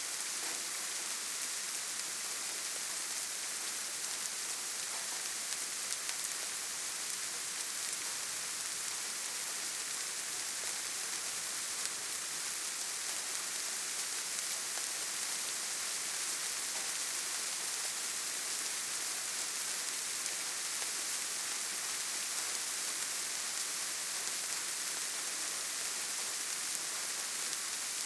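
Steady rainfall: an even, unbroken hiss of rain, brightest in the high end.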